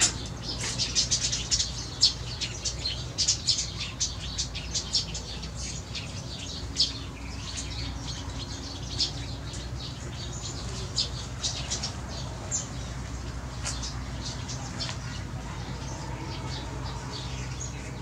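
A flock of small birds chirping in the trees: many short, high calls in quick succession, densest in the first few seconds and thinning out later.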